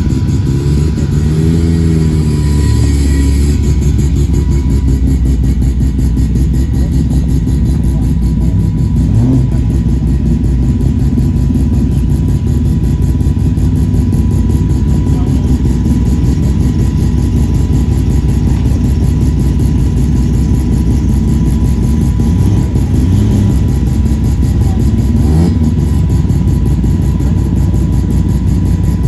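Muscle car engines rumbling at idle, with one engine revved up and back down about two seconds in and a few shorter throttle blips later on. The sound cuts off suddenly at the end.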